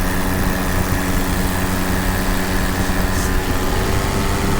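Tandem paramotor's engine and propeller running at a steady in-flight throttle: a constant, unchanging drone.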